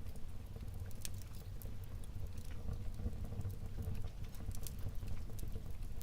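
Wood fire in a fireplace crackling, with scattered sharp pops over a low, steady rumble.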